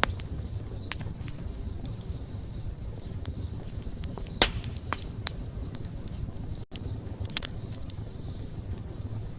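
Wood campfire burning with a steady low rumble and irregular crackles and pops, one louder pop a little before halfway. The sound cuts out for a split second about two-thirds through.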